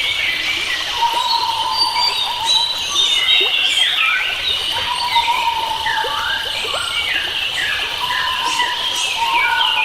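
A chorus of many forest birds singing and chirping at once, over a steady high hum. A lower held whistle note comes back every few seconds.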